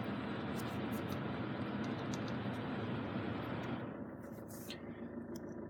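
Car's climate-control blower fan running with a steady hiss, dropping to a quieter, duller rush about four seconds in, with a few light clicks of controls.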